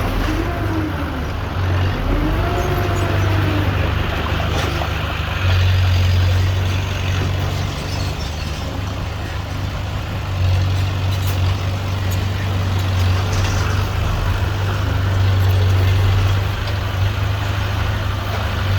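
Heavy earthmoving machinery's diesel engine running with a steady low drone that swells louder three times as it works under load. A few short squeals rise and fall in the first few seconds, with light scattered clanks.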